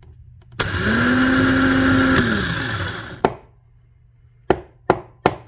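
Starter motor from a Generac 16 kW standby generator, off the engine and jumped from a battery, spinning freely. It whirs up to speed, holds a steady pitch for about a second and a half, then coasts down, showing the starter works. A few sharp clicks follow near the end.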